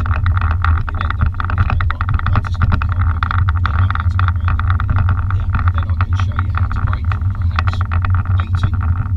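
BMW M5's twin-turbo V8 running steadily under way, heard from inside the cabin along with road noise, with scattered short ticks over it.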